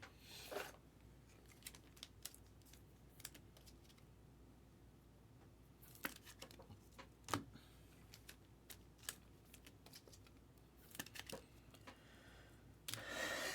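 Trading cards and pack wrappers being handled: faint scattered clicks with a few brief rustles.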